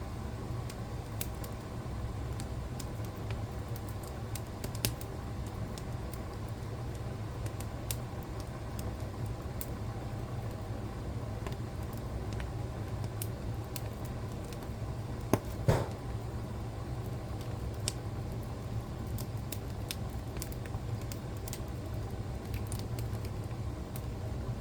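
Wood fire in a fireplace burning with a steady low rumble and scattered crackles and pops, one louder snap about two-thirds of the way in.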